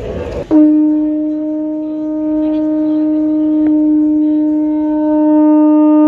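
A horn blown by mouth, sounding one long steady note that starts suddenly about half a second in and is held without wavering, blown lightly rather than at full strength.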